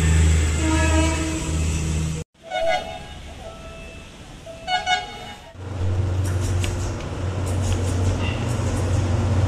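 Philippine National Railways diesel train running with a steady low drone, broken by short horn toots; the drone cuts off suddenly and comes back a few seconds later.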